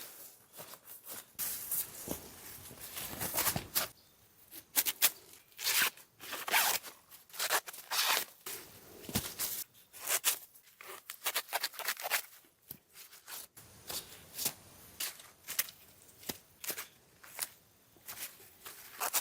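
Crisp, irregular rustling and snipping of handwork among garden plants, in uneven bursts with short pauses.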